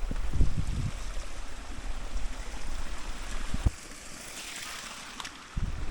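Steady outdoor rushing hiss, with gusts of wind buffeting the microphone for about the first second and again near the end.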